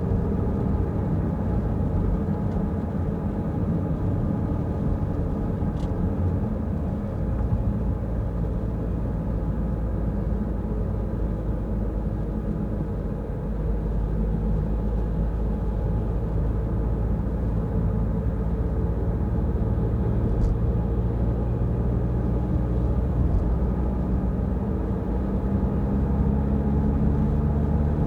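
Peugeot Rifter driving on the road: a steady low rumble of engine and road noise, with the engine note shifting a few times as the speed changes.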